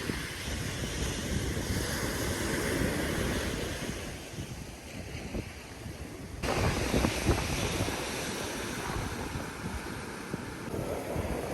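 Ocean waves washing onto a beach, with wind buffeting the microphone. About halfway through, the sound cuts abruptly to a louder stretch of surf and wind.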